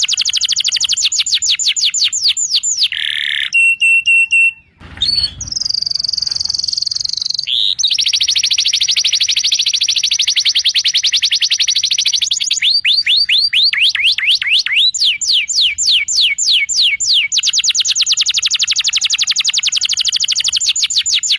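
Canary singing a long song of rapid trills: fast runs of repeated high sweeping notes that change speed and pitch from phrase to phrase, with a brief break and a held high note about five seconds in.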